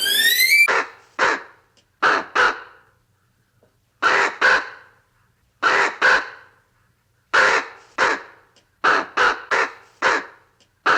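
A brief rising whistle at the start, then a bird's short harsh calls, given in quick pairs and threes about every second and a half.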